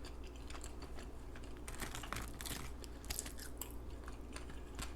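A person chewing fast food close to the microphone with her mouth open: irregular wet smacks and small crunches, several a second, over a faint steady low hum.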